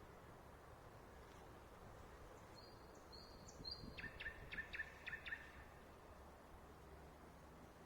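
A songbird singing faintly over a steady low hiss: one short phrase of three flat, high whistles, then about six quick, sharp notes. The uploader takes it for a nightingale but is not sure.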